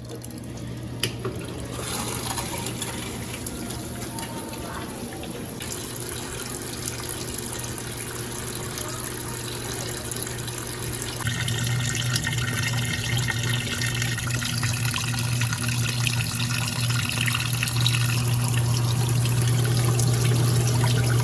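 Consul CWS12 12 kg washing machine filling with water for its second rinse: a steady rush of water into the tub over a low hum, getting louder about halfway through.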